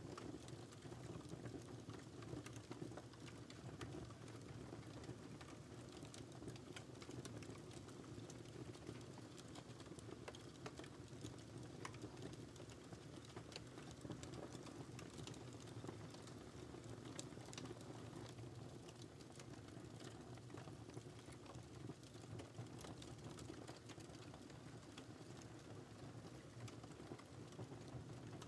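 Wood fire crackling in a fireplace: irregular sharp snaps and pops over a low, steady rumble of the flames.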